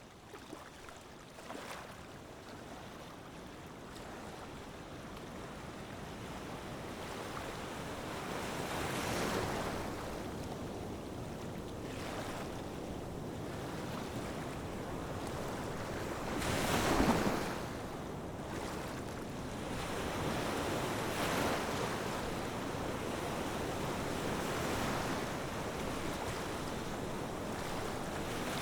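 Sea waves washing in surges every few seconds, the loudest about two-thirds of the way through, with some wind.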